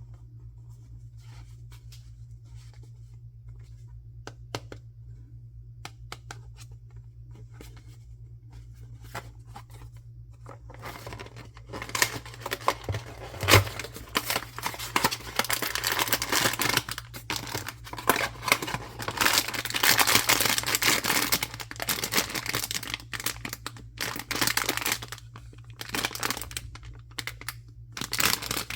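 Blind-box packaging being opened by hand: light scratches and taps at first, then, about a third of the way in, a long stretch of loud tearing and crinkling of plastic wrapping that comes and goes with short pauses.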